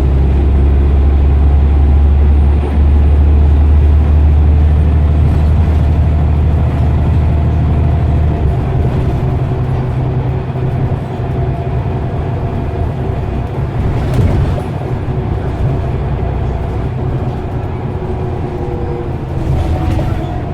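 Scania CN94UB OmniCity bus engine working hard under acceleration, a loud deep drone with a steady whine over it. The drone drops away about eight seconds in and the engine runs on lighter.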